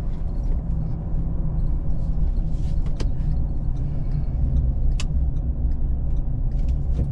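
Vehicle travelling along a road: a steady low rumble of engine and road noise, with two sharp clicks about three and five seconds in.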